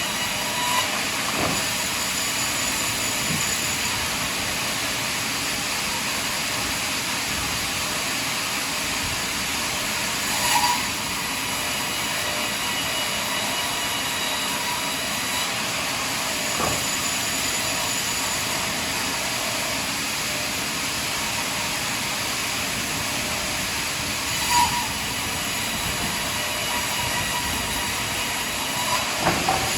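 Sawmill running steadily, a constant mechanical noise with a faint high whine, broken by a few brief knocks.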